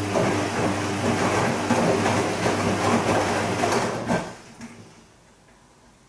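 Bosch Serie 2 VarioPerfect washing machine turning its drum during the wash on the gentle silk programme: a steady motor hum under the tumble and slosh of the wet laundry, stopping about four seconds in as the drum comes to rest.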